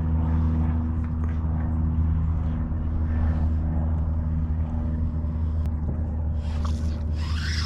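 Steady low drone of an engine running at an even speed, with a short rustle near the end.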